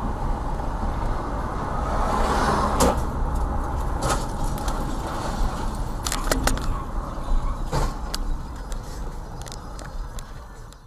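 Car driving, a steady rumble of road and engine noise, broken by several sharp knocks or clicks about three, four, six and eight seconds in.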